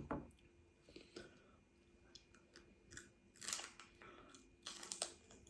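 Raw celery sticks being bitten and chewed: a series of irregular crisp crunches, a cluster of them near the end.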